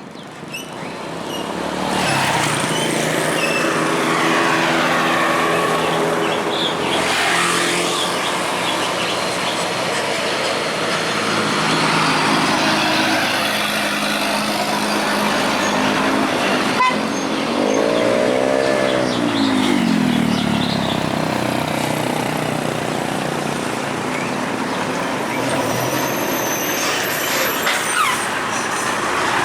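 Heavy trucks running and passing in road traffic, a steady mix of diesel engine and tyre noise. About two-thirds of the way through, a pitched tone rises and falls for about three seconds.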